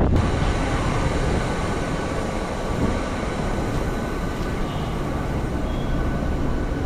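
MMTS electric suburban train running along the track: a steady rumble of the carriage with a faint steady whine above it.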